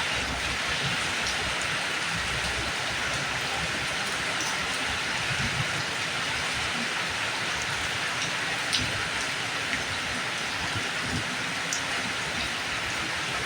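Steady rain falling: an even hiss with scattered sharper drops tapping on surfaces.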